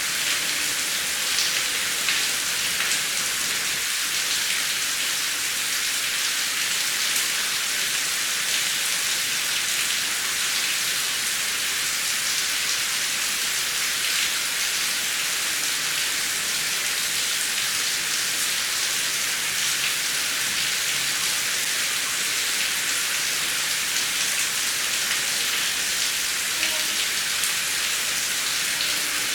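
Steady heavy rain, a dense even hiss of falling rain with scattered drop ticks.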